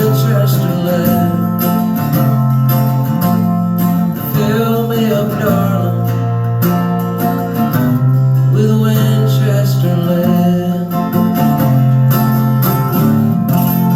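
Acoustic guitar strumming chords in a country-folk song, with a wavering melody above it and no sung words.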